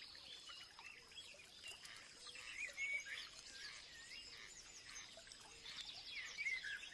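Several small birds chirping and whistling over one another in quick, short sweeping notes, busiest about two and a half seconds in and again near the end, over a steady high hiss.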